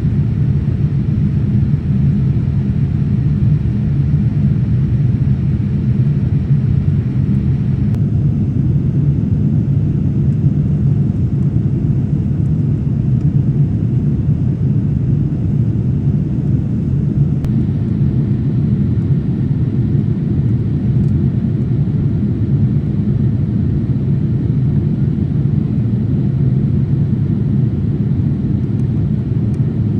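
Steady cabin noise of a Boeing 787-8 airliner in flight: a constant low rumble of engines and airflow. The higher hiss changes abruptly about 8 and 17 seconds in.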